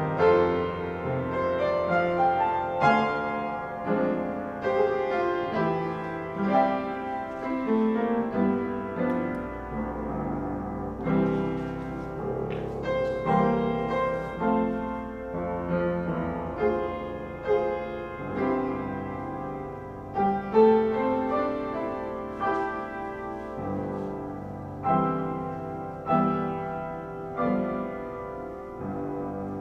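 Solo piano playing a slow classical-style piece, with chords struck and left to ring.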